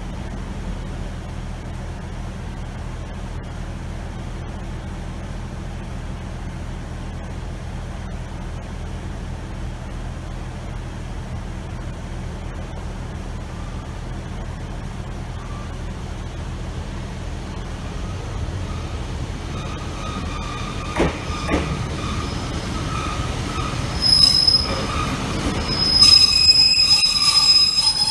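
Diesel multiple unit arriving at a platform: a steady low diesel engine drone that grows louder as it comes in. In the last few seconds its brakes squeal, high-pitched, as it slows alongside the platform.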